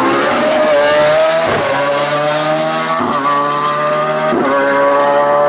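Hillclimb race car engine at full throttle, its note cut briefly three times, about every one and a half seconds, as it changes up through the gears.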